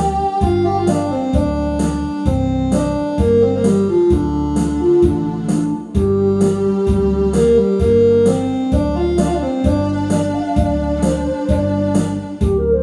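Trot song backing track: an electronic keyboard melody in held notes over a steady bass and drum beat.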